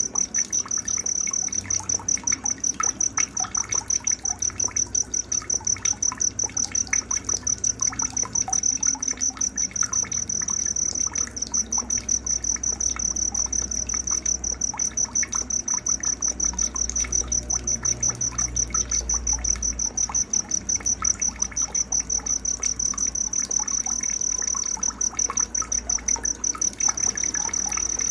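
Night nature ambience: a cricket trills steadily in a rapid, pulsing high tone, with many short scattered bird chirps beneath it.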